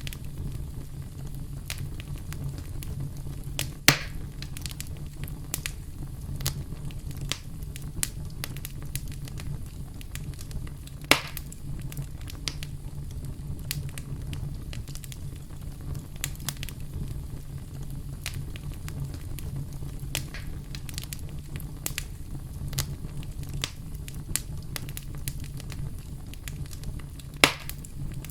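Campfire crackling: a steady low rumble of burning wood under many small irregular snaps, with three louder pops, about 4 seconds in, about 11 seconds in and near the end.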